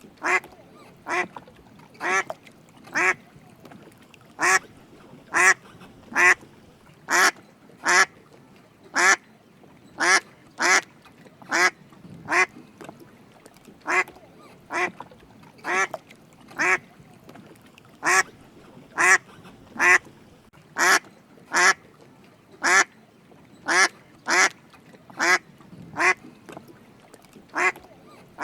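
Drake mallard quacking: a series of short single quacks, roughly one a second with slightly uneven gaps.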